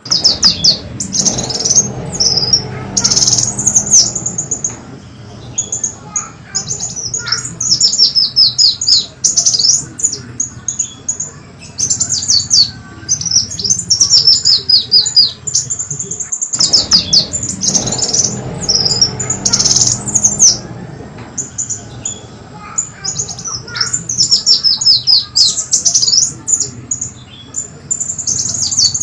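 Recorded lure song of the kolibri wulung sunbird: rapid high-pitched twittering in repeated runs of quick falling notes, with a low hum underneath. It breaks off for an instant about sixteen seconds in, then starts again.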